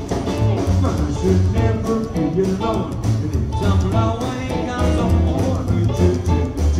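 A live rock and roll band playing: electric guitar over a driving bass line and drums.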